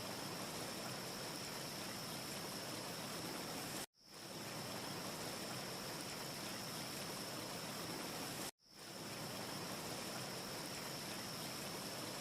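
A looped ambience track of steady rushing noise with a thin high whine running through it. It drops out abruptly twice, about 4 and 8.5 seconds in, and fades back in each time as the short loop restarts. No fire crackle is heard.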